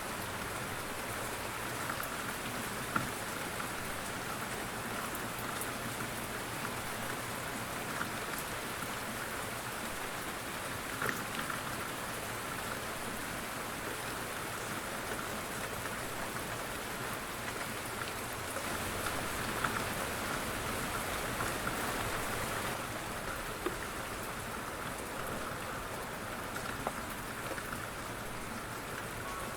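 Light rain falling steadily on a surface: an even hiss of rain with the odd louder drop ticking out of it.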